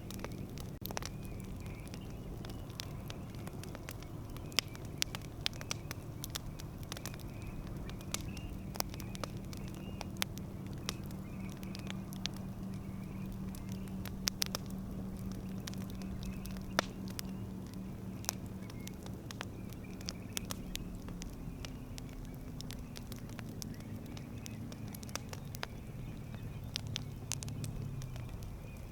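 Campfire crackling: a dense run of sharp, irregular pops and snaps from burning wood over a soft steady background. A low steady hum runs underneath and fades out near the end.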